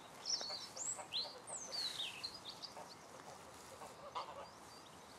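A bird singing nearby: a run of high whistled notes that sweep up and down, loudest in the first two seconds, then a few fainter short notes.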